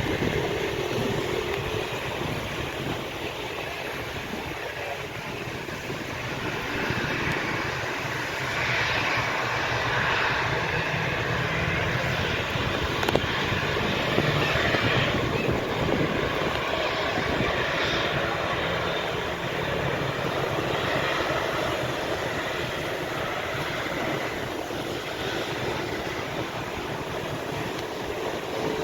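Jet engines of a Boeing 737 running steadily, a broad rushing noise that swells and eases only slightly.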